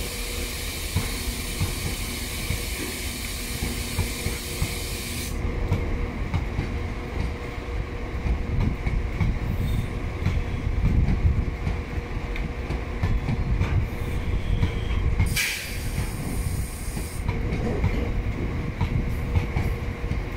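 A freight train's bogie hopper wagons rolling past, wheels clattering over rail joints with a steady low rumble. A high hiss cuts off suddenly about five seconds in, and a brief sharp noise comes about fifteen seconds in.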